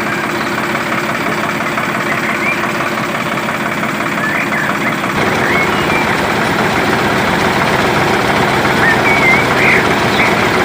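Motor running steadily, getting louder and heavier a little past halfway through, with a few short high chirps over it.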